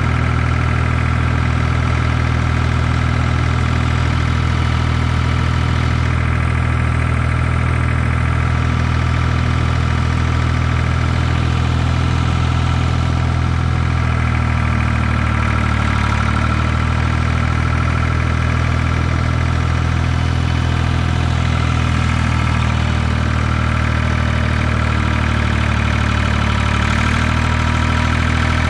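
Ford 2000 tractor's diesel engine running steadily, its note shifting slightly a couple of times.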